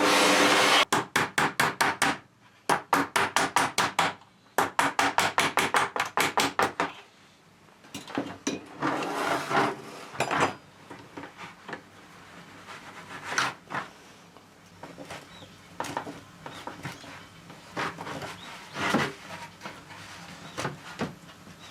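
A power tool running stops just under a second in. Three runs of rapid, even tapping follow, about eight strikes a second, then scattered knocks and handling noises as work goes on.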